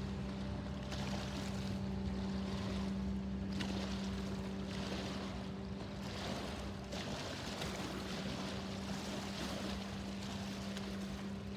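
Diesel engine of an inland freight ship on a river, a steady low drone, under a rushing noise that swells and fades.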